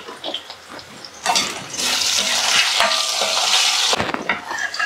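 Boiled potato chunks frying in hot oil in a pan while being stirred with a spatula: scattered taps and scrapes, then a loud sizzle from about a second in that stops sharply near the four-second mark, followed by more taps.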